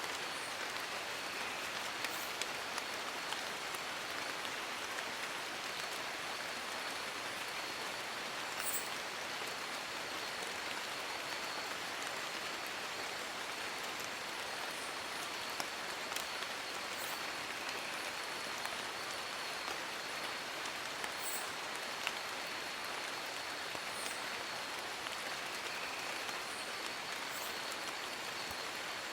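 Steady rain falling, an even hiss with scattered sharper drips and taps now and then.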